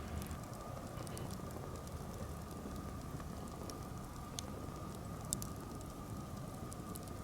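Birch-wood campfire crackling, with scattered sharp pops over a low steady hiss.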